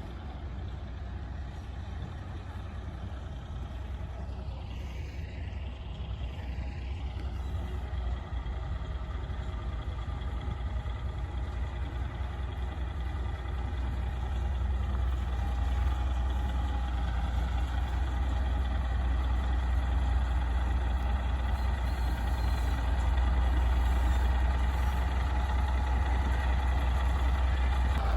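Heavy truck engine running with a steady low rumble, growing gradually louder.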